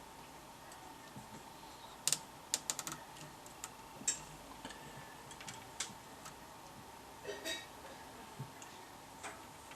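Irregular light clicks and taps, with a quick run of them about two seconds in, over a faint steady tone.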